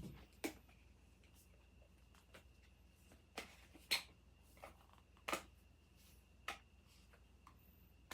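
Faint, irregular clicks and taps of small objects being handled, about eight in all, over a faint steady low hum.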